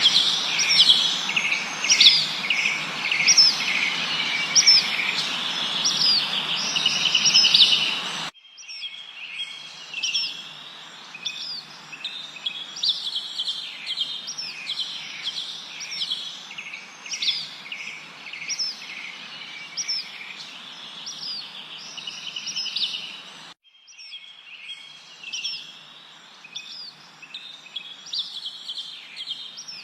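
Forest birds chirping, many quick repeated chirps and trills over a steady background hiss. About eight seconds in, the sound cuts abruptly to a quieter stretch of the same chirping, and it drops out for a moment again later, as at splices in the recording.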